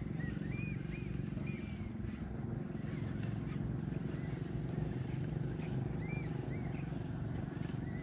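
Birds chirping in short, repeated calls, with a quick run of four high notes about halfway through, over a steady low rumble.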